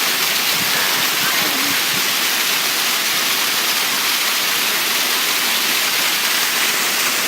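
Steady, loud rush of a waterfall, water pouring and splashing down a rock face close by.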